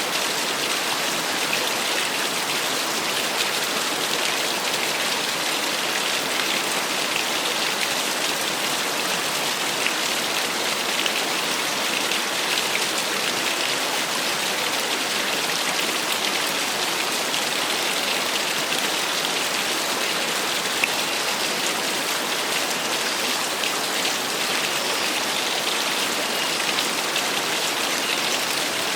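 Small waterfall: falling water splashing steadily onto water and rock, an even hiss-like rush with little deep rumble.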